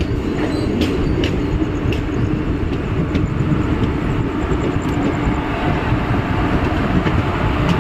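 Passenger train running on the rails, a steady loud rumble with a few sharp clicks during the first few seconds.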